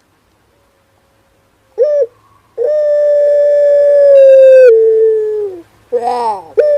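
Male puter pelung dove singing its drawn-out performance coo: a short note about two seconds in, then a long held note that drops in pitch before ending, followed by a shorter falling, wavering call and one brief note near the end.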